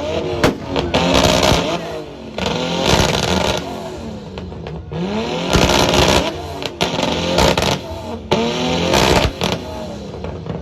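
Car engine revved hard over and over, its pitch sweeping up and falling back every second or two, with sharp cracks and pops between the revs.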